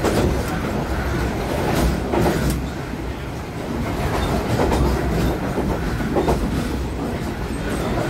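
Passenger train running along the line, heard from inside the carriage: a steady rumble and rattle of the coach, with a few sharp clacks of the wheels over rail joints.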